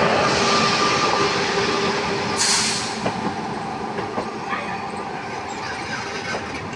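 An Indian Railways train running past on the track, its noise slowly fading as it moves away. A short hiss about two and a half seconds in, and scattered light clicks after it.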